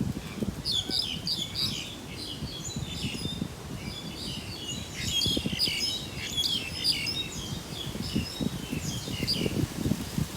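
Small birds chirping and twittering in quick repeated calls, over an irregular low rumble.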